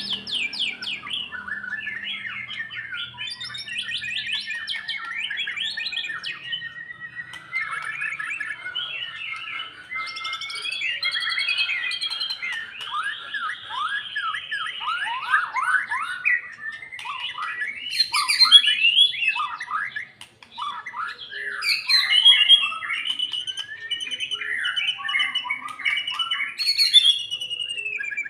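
White-rumped shama singing a long, unbroken, varied song of rapid whistles, trills and sliding notes, with a few sharp, louder notes in the second half.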